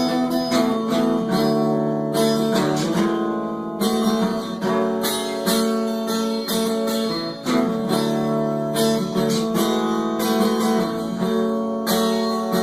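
Acoustic guitar strummed in a steady rhythm, an instrumental break between sung verses.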